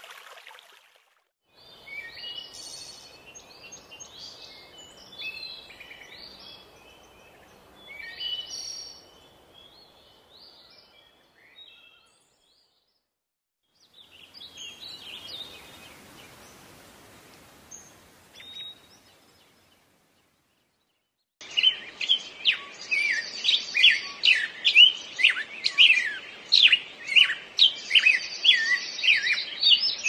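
Songbirds chirping and singing in three short passages with brief silences between them. The last passage is the loudest: a fast run of repeated chirps, about two or three a second.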